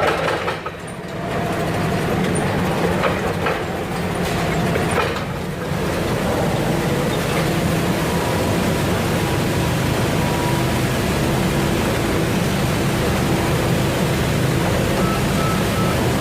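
Steady running noise of heavy machinery, with a low hum and a few faint steady tones.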